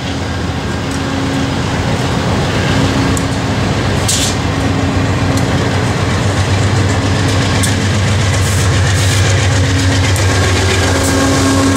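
Commuter train coaches rolling past close by: a steady rumble of wheels on rail with clickety-clack over the joints. The sound grows slowly louder as the diesel locomotive pushing at the rear comes up near the end.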